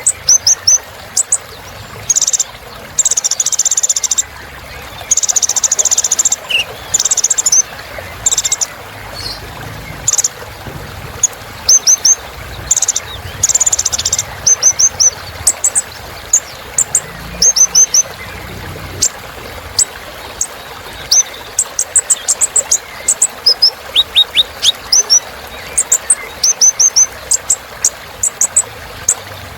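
Kolibri ninja (a sunbird) singing. It gives rapid runs of high, thin chirps and quick downward flicks, broken by short buzzy trills, repeated in clusters.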